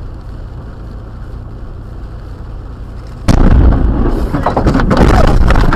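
A low steady rumble, then about three seconds in a sudden loud boom that runs on as a heavy rumbling crash.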